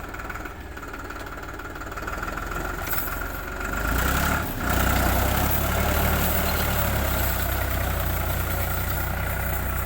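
Tractor diesel engine running, getting louder and deeper about four seconds in, with a brief dip, then holding steady at the higher speed.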